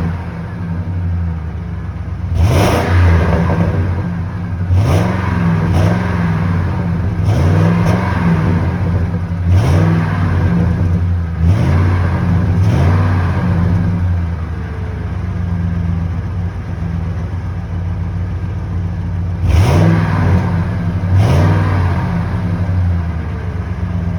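2003 Ford F-150's 5.4-litre V8 exhaust on a cold start, idling with repeated quick throttle blips: about nine revs that climb and drop back to idle, with a longer steady idle in the middle.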